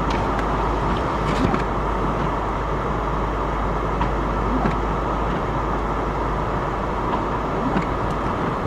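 A freight train rolling past, a steady rumble with a few sharp clicks scattered through it.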